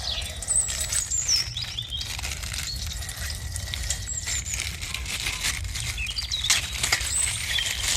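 Plastic bag of coloured water being handled and squeezed: a run of crinkling and clicking with a few short, high squeaks.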